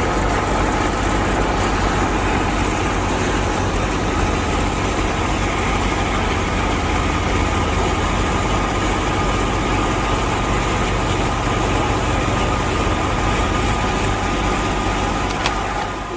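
A motor running steadily, with a constant whine over its rumble. There is a single sharp click near the end.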